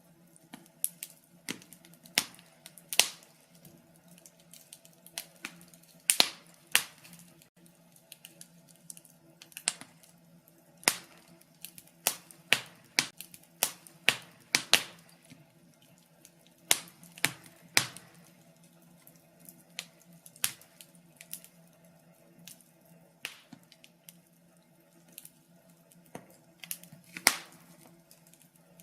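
Wood fire in a fireplace crackling: irregular sharp pops and snaps, a few loud ones among many small ones, over a faint steady low hum.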